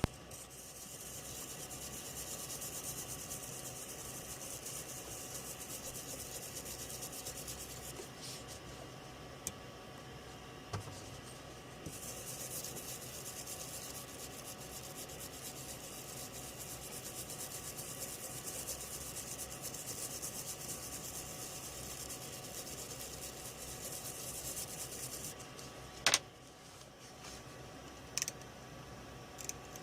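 Steady scratchy rubbing or scrubbing in two long spells, pausing for a few seconds about 8 s in and stopping about 25 s in, with a few sharp clicks and a louder click just after it stops.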